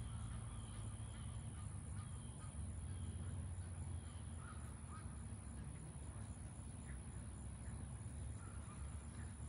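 Faint bird calls, repeated several times in the first few seconds, over a steady low rumble.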